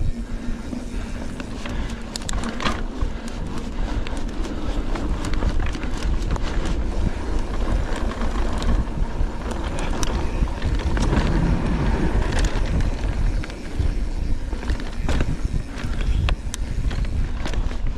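Mountain bike (hardtail) rolling over a dirt trail, heard close up: a continuous low rumble of tyres and wind with frequent sharp clicks and rattles from the bike over the rough ground.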